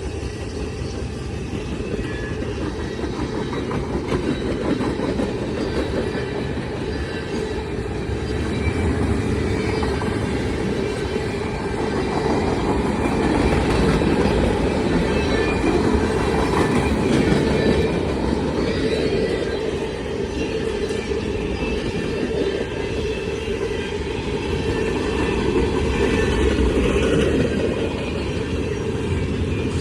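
Freight cars of a CSX manifest train rolling steadily past, their wheels clattering over the rail joints, with faint high-pitched wheel squeal at times.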